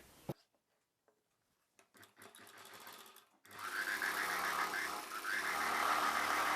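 A few faint clicks, then from about three and a half seconds a sewing machine running steadily, stitching a seam along the edge of a blouse sleeve and its lining piece.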